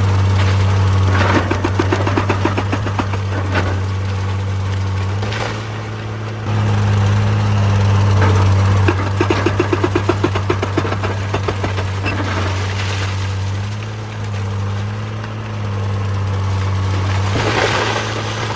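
Excavator's diesel engine running under load, its note stepping up and down as the machine works. Two stretches of fast, even rattling come through, about a second in and again near the middle, with noisy scraping of rock between them.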